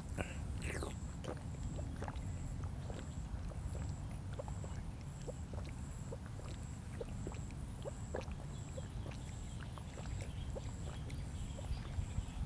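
Eating sounds: steady chewing with many small wet mouth clicks and smacks, over a constant low background rumble.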